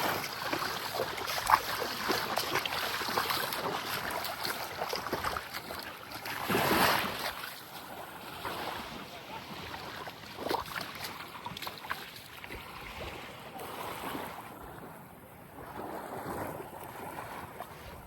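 Small waves lapping and washing onto a sandy beach in a light breeze, rising and falling in surges, with one louder wash about a third of the way in.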